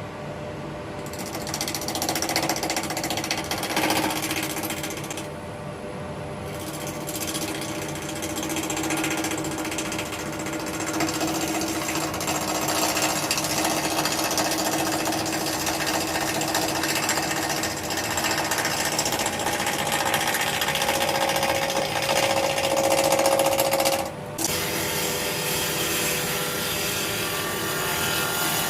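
Wood lathe running while a bowl gouge cuts a spinning burr elm blank, a dense scraping cutting noise over a steady motor and dust-extractor hum. The cutting eases off briefly about five seconds in and stops for a moment about 24 seconds in before resuming.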